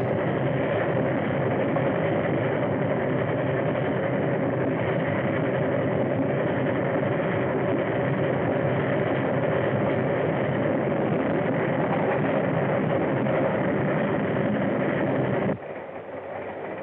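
Train running at speed, a steady, loud rumble and clatter, which cuts off abruptly about a second before the end.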